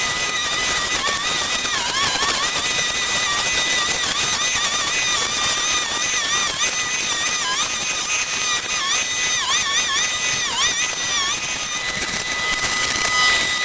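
Small petrol power tool running at high speed, its pitch dipping briefly again and again as it bogs under load, typical of a brush cutter or trimmer cutting into vegetation; it runs steadily again near the end.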